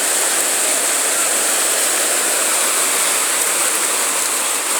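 Whitewater rapids on the Chattahoochee River rushing steadily, an even, unbroken noise of fast water.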